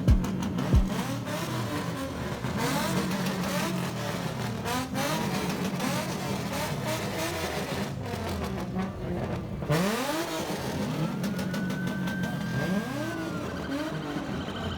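Several car engines revving and accelerating at once, their pitch repeatedly rising and falling, with a sharp rev-up about ten seconds in.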